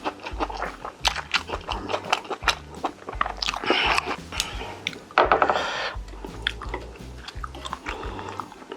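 Close-miked chewing and biting of food: wet mouth clicks and crunches in a fast, irregular run. Two louder rushing mouth noises come about three and a half and five seconds in.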